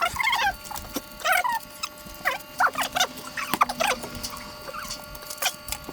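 Cat, likely a kitten, giving a series of short high mews, about six calls, with a few sharp clicks between them.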